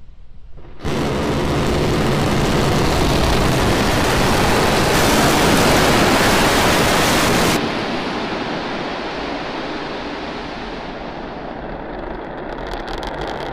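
Starship SN10 prototype's Raptor rocket engines: a loud, steady rumbling hiss that starts abruptly about a second in, grows louder through the middle, drops sharply a little past halfway and then fades slowly.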